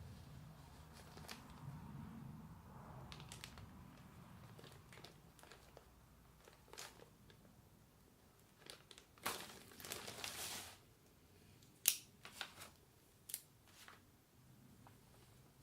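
Handling noises: scattered small clicks and knocks, with a longer rustling scrape about nine to ten and a half seconds in and a sharp click about two seconds later.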